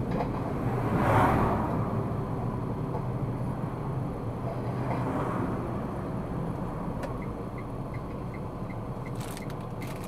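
Road and engine noise inside a moving car, swelling briefly about a second in. From about two-thirds of the way through, a turn-signal indicator ticks lightly, about three times a second.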